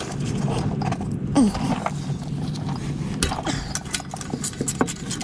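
Hand socket ratchet clicking in quick irregular strokes as an exhaust bolt is turned by hand.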